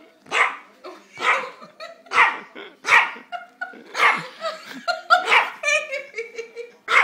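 A dog barking over and over, about once a second, with quicker, shorter barks and yips in the second half.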